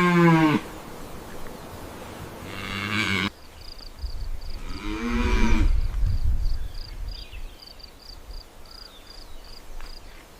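Cattle mooing: three calls, one ending just after the start, one about three seconds in that cuts off abruptly, and one around five seconds in. A faint, even high chirping runs behind the calls in the second half.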